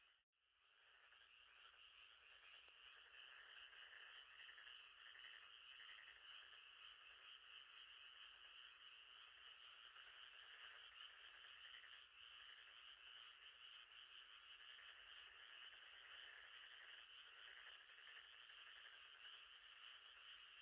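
Faint, steady night chorus of frogs and insects trilling, with a brief dropout just at the start.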